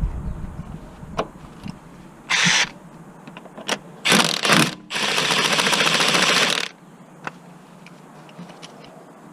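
Cordless power tool run in three short bursts, the last about a second and a half long, with a rapid fine rattle, typical of undoing fasteners. Light clicks of tool handling come between the bursts.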